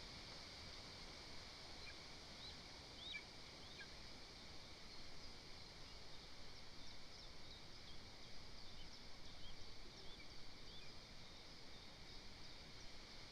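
Faint chirps and short calls of small birds, scattered and more frequent in the second half, over a steady hiss of forest ambience and microphone noise.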